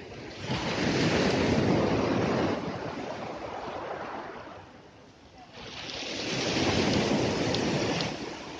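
Sea waves breaking and washing up the shore, twice: each wave's surf swells up, holds for a second or two, then dies away.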